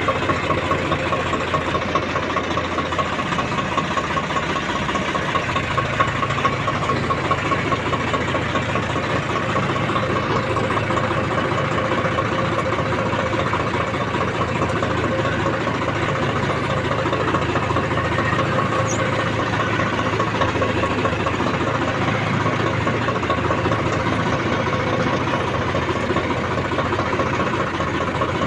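Tractor's diesel engine running steadily at an even pitch.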